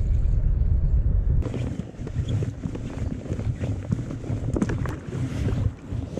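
Wind buffeting the microphone as a heavy low rumble that eases after about a second and a half, leaving a lighter rumble with scattered small knocks and rustles.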